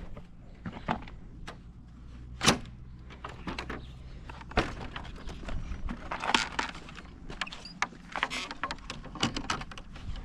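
A string of irregular knocks, thuds and scuffs, with one sharp knock about two and a half seconds in and a busier run of knocks from about six seconds on, over a low rumble that fades out after about seven seconds.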